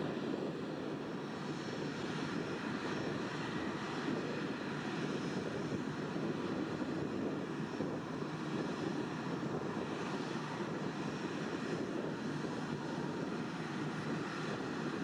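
Airliner jet engines running, a steady rumble with no rise or fall.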